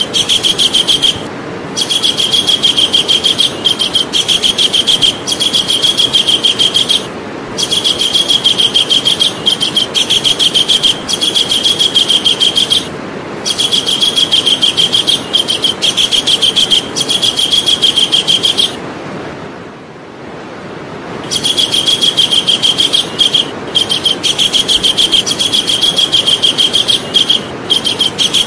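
Javan kingfisher calling: a loud, rapid chattering trill of high notes repeated many times a second, in long bouts broken by brief pauses, with a longer pause about two-thirds of the way through. A steady hiss runs underneath.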